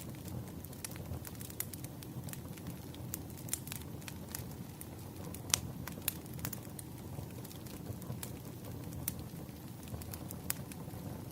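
Wood fire crackling, a steady low rumble with many sharp pops and snaps scattered through it. The loudest pops come about halfway through.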